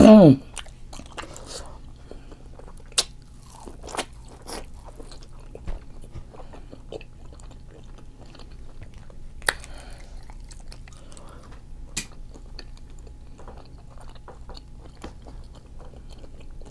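Close-miked chewing and biting of seafood-boil food, with wet mouth smacks and a few sharp clicks scattered through. It opens with a short, loud hum that falls in pitch.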